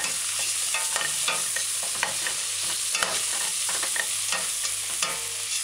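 Chicken pieces and onions frying in a stainless steel pot with a steady sizzle, while a metal cooking spoon stirs them, scraping and clicking irregularly against the pot.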